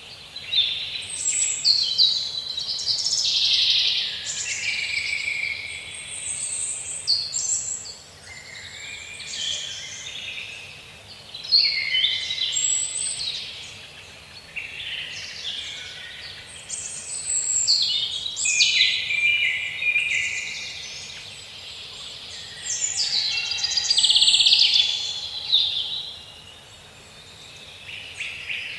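Birds singing and calling in overlapping high, chirping phrases that swell and fade every few seconds.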